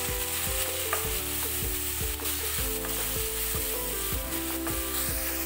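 Chopped tomatoes and green chillies sizzling in hot oil in a nonstick frying pan with a steady hiss, stirred with a spatula.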